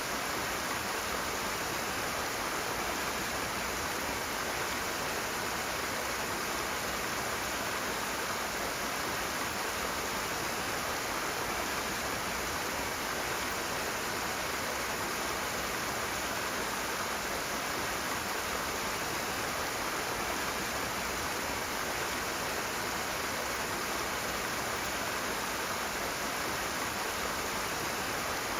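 Rushing water: a fast stream pouring steadily, an even noise that does not change.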